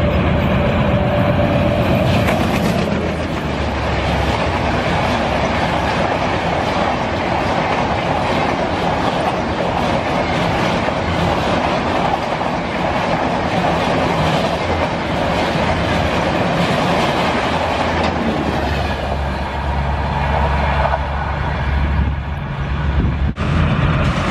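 Train running along the track, wheels clattering over the rails in a steady rumble. Near the end a low steady hum grows stronger beneath it.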